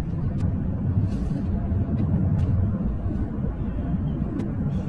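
Steady low rumble of a car being driven, with a few faint clicks.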